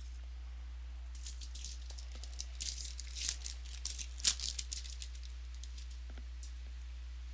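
Crinkling and rustling of trading cards and their packaging being handled, a few seconds of crackles with one sharp click near the middle. A steady electrical hum runs underneath.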